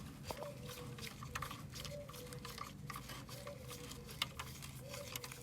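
Light, irregular clicks and taps of metal parts and hand tools being handled, with a faint tone that rises and then holds for a moment, recurring about every second and a half.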